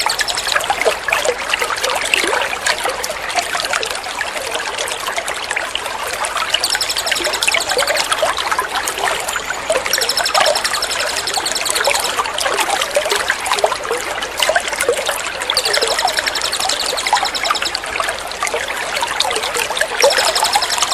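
Water trickling steadily as a water-therapy sound, with a high, fast-trilling songbird call laid over it several times in short bouts. The calls are a bird-tutoring (masteran) track.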